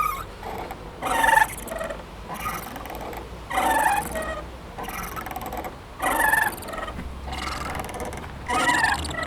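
A playground swing squeaking at its hangers with each pass, rhythmically about every second and a quarter, the squeaks alternating louder and softer as it goes back and forth.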